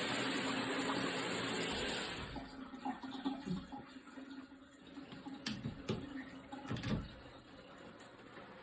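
Water spraying at high pressure from a handheld showerhead as a steady hiss that stops abruptly about two seconds in. A few light knocks follow.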